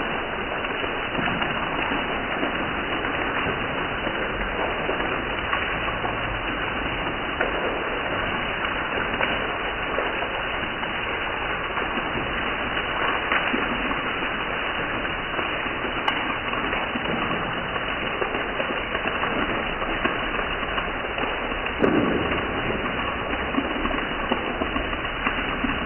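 Heavy rain falling steadily on a concrete courtyard and stairs: a constant dense hiss of drops splashing. A brief louder thump near the end.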